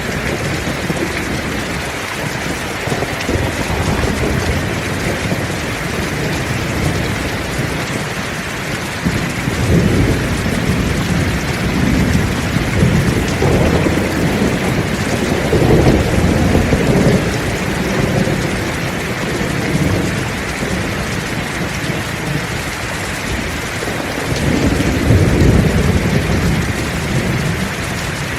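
Heavy rain falling steadily, with rolling thunder rumbling low beneath it and swelling louder midway and again near the end.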